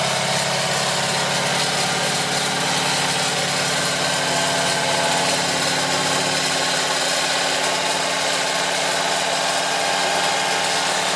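Citroën 2CV van's air-cooled flat-twin engine idling steadily, freshly started.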